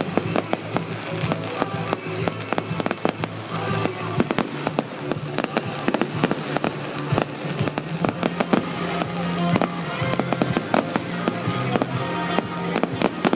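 Fireworks display: a rapid, continuous run of sharp bangs and crackling from bursting shells.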